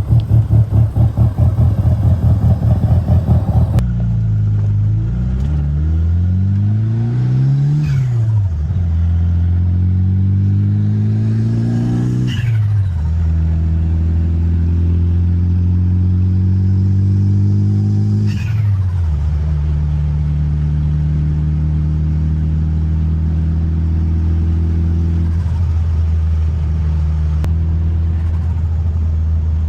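Turbocharged 4G63 engine of a 1995 Mitsubishi Eclipse GSX, pulsing at low revs for the first few seconds, then pulling through the gears: revs climb and drop at shifts about 8 and 12 seconds in, then hold fairly steady with another shift about 18 seconds in. A faint whistle falls away at each shift.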